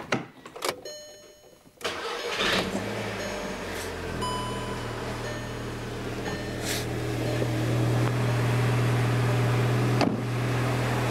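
A few clicks, then a 2008 VW GTI's 2.0 TFSI turbocharged four-cylinder (BPY) cranks and catches about two seconds in and settles into a steady idle that rises a little a few seconds later. It is a cold start, the first start on a newly fitted oil filter housing and filter. A sharp click comes near the end.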